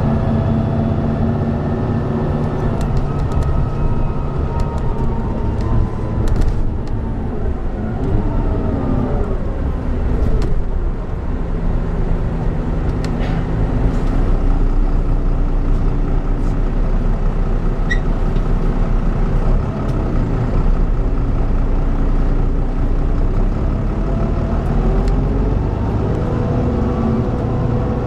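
Volvo B9B diesel engine of a Volvo B9TL double-decker bus running under way, its pitch falling and climbing again several times as the ZF Ecomat automatic gearbox shifts through the gears, with a few short clicks.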